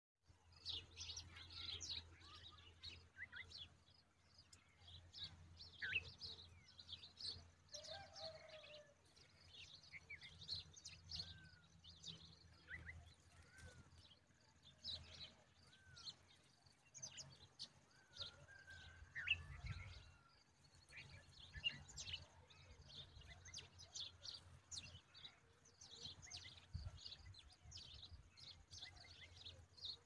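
Faint bird chirping: many short, high chirps come in quick runs throughout, mixed with a few lower slurred calls.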